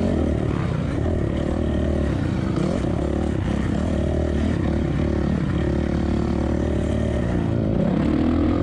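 Suzuki RM-Z450 single-cylinder four-stroke dirt bike engine running hard while ridden on a motocross track, its pitch rising and falling with throttle and gear changes, with wind noise on the microphone.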